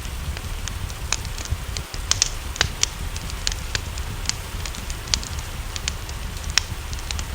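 Wood fire crackling, with irregular sharp pops, some louder than others, over steady rain and a low continuous rumble.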